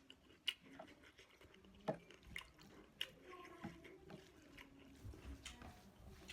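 Faint eating sounds: soft wet chewing with scattered small mouth clicks and smacks, and a faint low rumble near the end.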